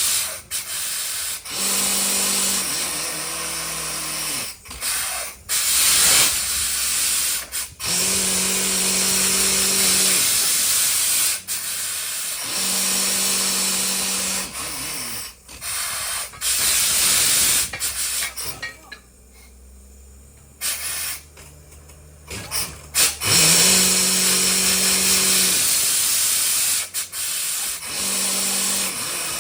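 Mini borewell rig drilling with a 4.5-inch down-the-hole air hammer: a loud steady hiss of compressed air, broken by short dropouts and a quieter spell past the middle. A low humming tone comes in for about two seconds at a time, every few seconds.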